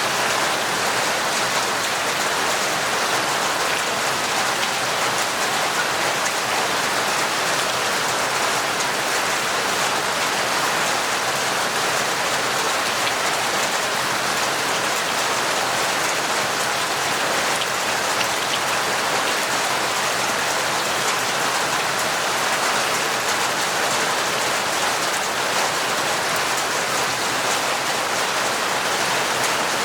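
Torrential rain falling steadily, an even hiss of countless drops that does not let up.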